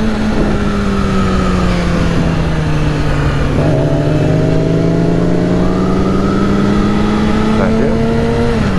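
Yamaha R6 sport bike's inline-four engine running at steady road speed, under wind rush on the helmet microphone. The engine note sags slowly at first, rises again with more throttle about a third of the way in, climbs gently, and falls away just before the end as the throttle closes.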